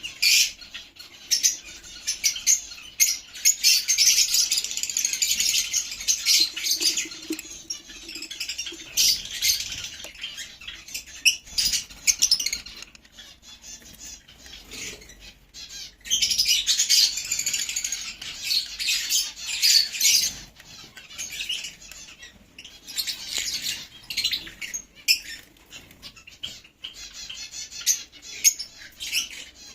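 Lovebirds chattering and squawking in dense, high-pitched bursts that come and go in waves several seconds long, with quieter stretches between.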